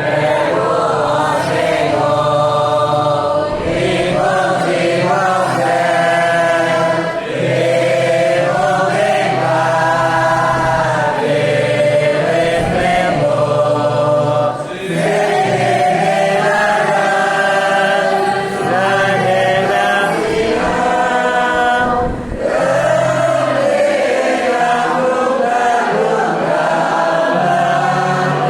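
Church congregation singing a hymn together as a choir, in long held notes, with short breaks between phrases about every seven seconds.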